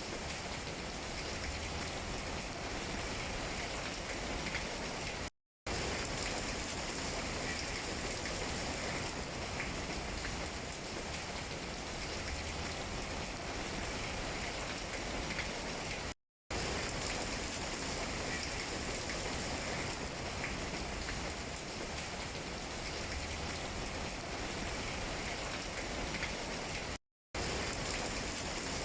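Steady rain falling on tree leaves, an even patter with faint scattered drips. It cuts out to total silence three times, each time for about a third of a second, then resumes.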